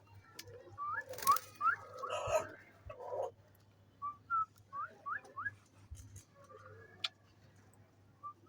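Short rising whistles in quick runs of three to five notes, with a brief rustling noise in the first few seconds.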